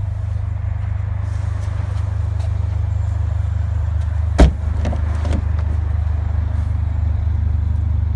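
Mercedes A45 AMG's engine idling with a steady low hum. About four and a half seconds in there is a sharp clunk, followed by two lighter knocks.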